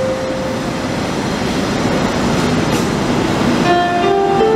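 Passenger train running through a station, a steady rush of wheels on rails. A melody of single notes ends shortly after the start and returns near the end.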